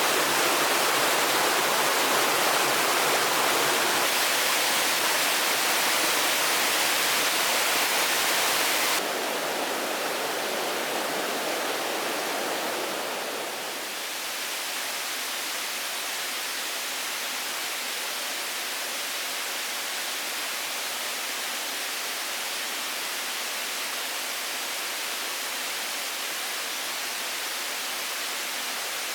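Steady rushing noise with no distinct events. It is louder and brighter for the first nine seconds, drops suddenly in level, eases down again about fourteen seconds in, then stays steady.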